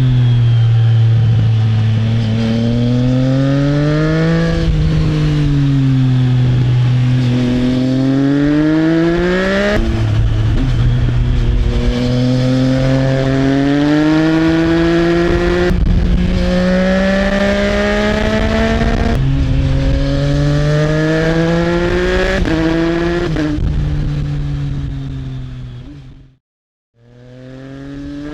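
Triumph Trident 660 inline-three engine through an aftermarket Arrow exhaust, accelerating on the road. Its pitch climbs through each gear and drops sharply at quickshifter upshifts, several times. Near the end the sound fades out briefly and comes back.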